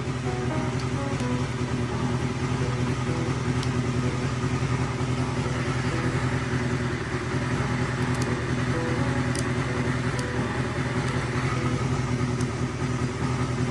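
Honda Jade 250 motorcycle's four-cylinder engine running steadily at idle after being revived from a dead battery, a little louder in the middle.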